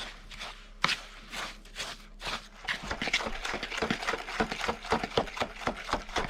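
A spoon stirring and scraping snow in a bowl as snow cream is mixed. The strokes are short and irregular: a few at first, then a quick, busy run from about halfway through.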